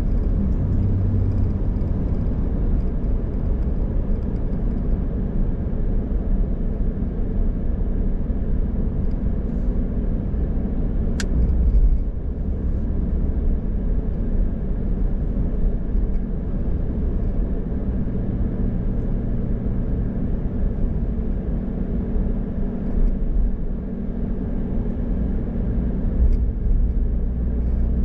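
A car being driven on the road: a steady low rumble of engine and tyres with a faint hum. There is a single sharp click about eleven seconds in.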